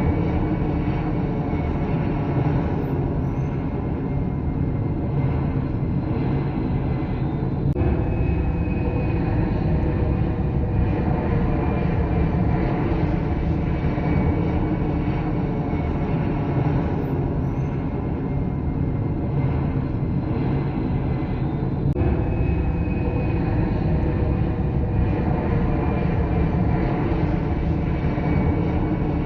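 Passenger jet engines running: a steady rushing noise with a faint high whine over it. The sound changes abruptly twice, about eight seconds in and again past twenty seconds, where one aircraft recording cuts to the next.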